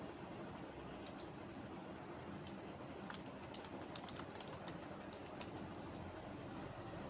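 Typing on a computer keyboard: irregular keystroke clicks, a few at a time with short pauses between, over a steady low background hum.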